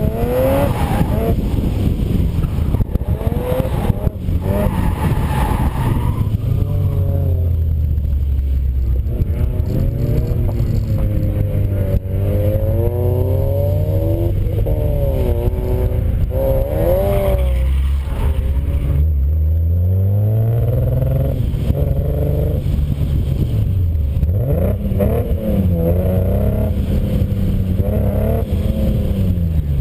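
Car engine with a misfire being revved up and down over and over, its pitch rising and falling, dropping back to a low idle between revs and falling away near the end.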